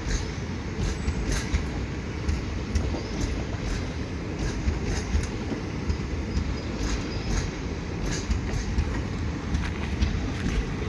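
Passenger train running on the track: a steady heavy rumble with scattered sharp clicks of wheels over rail joints.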